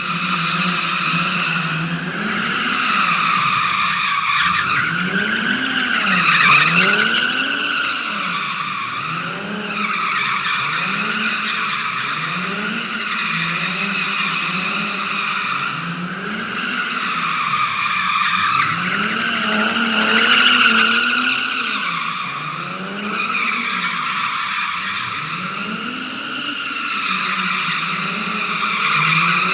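A car drifting: tires squealing without a break while the engine revs up and down again and again, about every one to two seconds.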